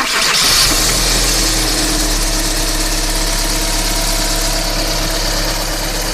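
Daewoo Nexia's GM 8-valve petrol engine running just after starting, its revs easing in the first second and then settling into a steady idle. Only the timing belt, a slight whine and the injectors' ticking are heard, with no rocker-arm knock after the worn rockers were replaced.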